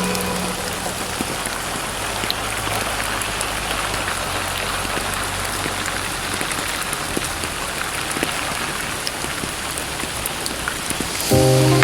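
Steady rain falling, an even hiss with fine crackling drops. A held music note fades out just after the start, and musical notes come back in near the end.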